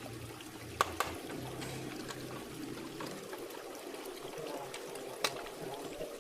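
Steady trickling, pouring water, with two sharp clicks, one about a second in and another about five seconds in.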